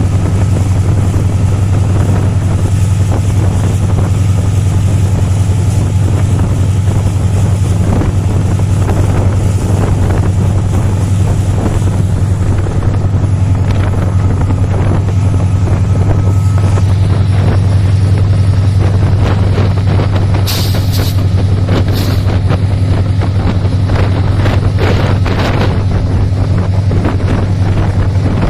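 Passenger train running through at speed: a steady low rumble with many rattling clicks, and wind buffeting the microphone.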